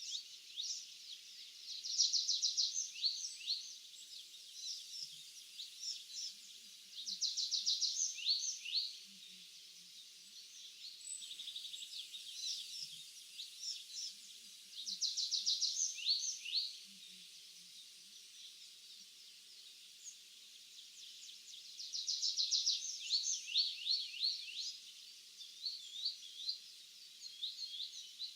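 Songbirds singing in an open field. One bird repeats a short song, a fast trill followed by a few down-slurred notes, four times about every seven seconds, over a steady background of more distant bird calls.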